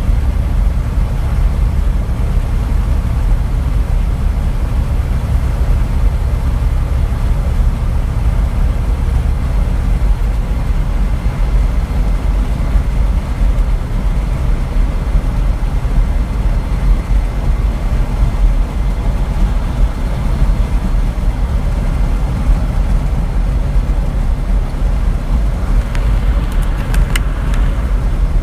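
Truck driving on the road: a steady, loud low rumble of engine and road noise, with a few sharp clicks near the end.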